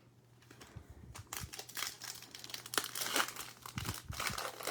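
Foil wrapper of a Select football trading card pack crinkling as it is torn and handled, starting about a second in.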